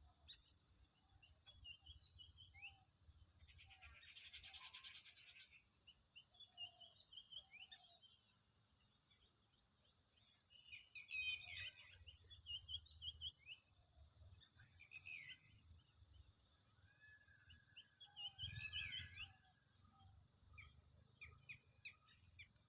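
Several birds chirping and calling in short, varied phrases, with a buzzy trill about four seconds in and louder bursts of calls around eleven and nineteen seconds. A faint steady high whine runs underneath.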